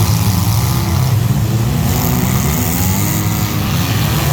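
Loud engine of a race vehicle running, its pitch rising and then falling about halfway through.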